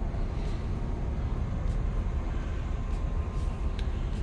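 Old Scania truck's diesel engine running steadily in a low, even rumble as the truck pulls in third gear.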